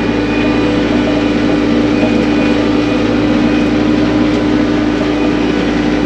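TYM cab tractor's diesel engine running steadily, heard from inside the closed cab.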